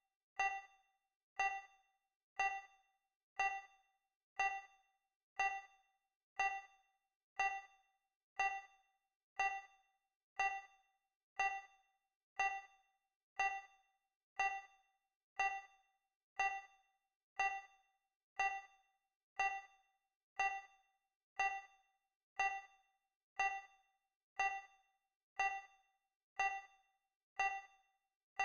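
Countdown timer sound effect: a short electronic ding struck once every second, each one dying away quickly.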